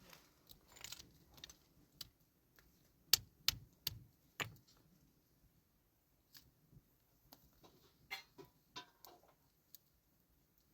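Irregular sharp clicks and knocks of hard objects, with a few louder knocks about three to four and a half seconds in.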